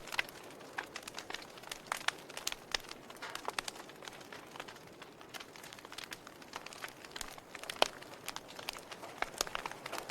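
Log fire burning and crackling: irregular sharp pops and snaps over a soft hiss, with one louder pop near the end.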